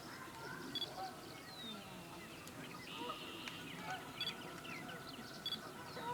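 Several birds calling at once: scattered short chirps and whistled notes, with a sharp double pip that comes three times and a short buzzy trill near the middle.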